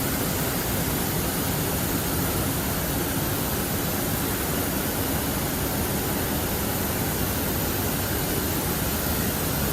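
Steady roar of a jet aircraft engine running, with a thin, high, constant whine.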